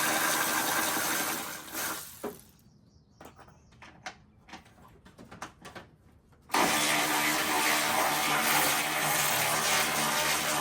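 A power tool runs in two long spells, stopping about a second and a half in and starting again after about five seconds. Between the spells there are quieter clicks and knocks of parts being handled.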